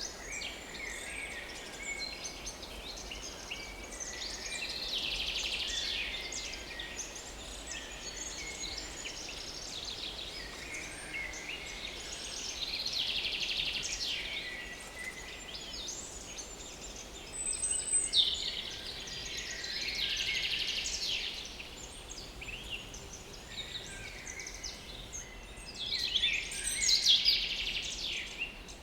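Chorus of small woodland songbirds singing at a forest edge: overlapping high song phrases and rapid trills, with a louder song every few seconds over steady outdoor hiss.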